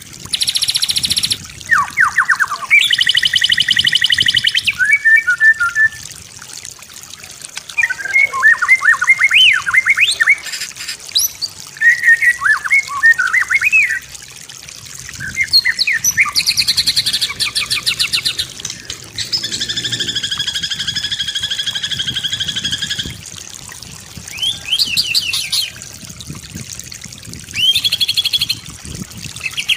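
White-rumped shama (murai batu) singing a full, varied song: phrases of slurred whistles and quick rising and falling notes alternate with long buzzy, rattling trills, one held for about four seconds in the second half, with short pauses between phrases.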